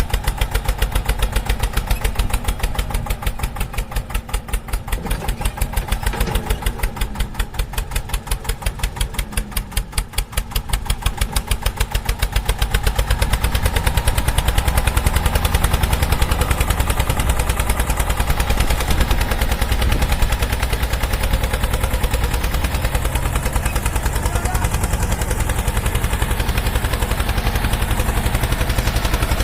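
Tractor engine running with a fast, even chugging beat. It grows a little louder and deeper about halfway through.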